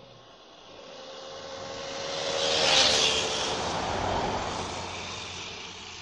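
Home-built electric motorbike driven by a converted 110-amp car alternator riding past, its motor whine and drive noise growing louder to a peak about three seconds in and then fading away, the whine dropping a little in pitch as it goes by.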